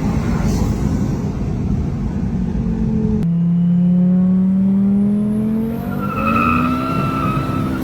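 Fiat Marea with an aftermarket exhaust pipe, running at a steady engine note, then abruptly switching to a clip where the engine pitch rises steadily as it accelerates. Near the end, a high steady squeal joins the engine sound.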